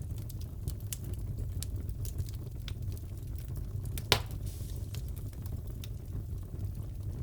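Wood fire crackling in a fireplace: a low steady rumble under scattered small pops, with one louder pop about four seconds in.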